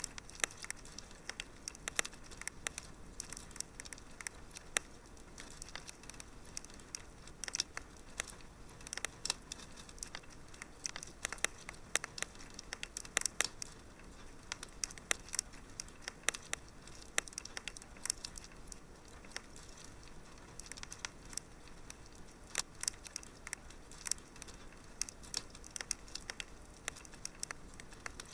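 Wood fire crackling in a fireplace: many small irregular pops and snaps, with a few sharper ones, over a soft steady hiss.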